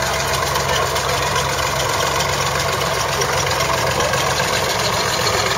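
Tractor engine running steadily at idle, a low even engine sound with no change in speed.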